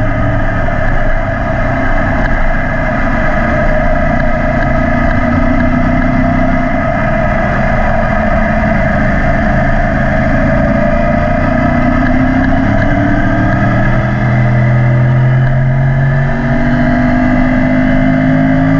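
Yamaha YZF-R1 crossplane inline-four running through an Akrapovic exhaust while riding: a steady engine note that dips slightly, then climbs in pitch near the end as the bike accelerates, over a low wind rumble.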